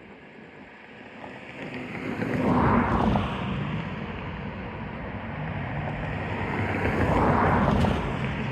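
Road traffic going by: a low rumble of engines and tyres, with two vehicles passing close, one about two to three seconds in and another around seven seconds.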